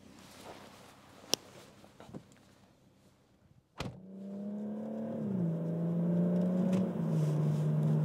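A few clicks and a sharp knock, then the BMW M140i's 3.0-litre turbocharged straight-six drones steadily inside the cabin from about four seconds. The drone steps down in pitch twice.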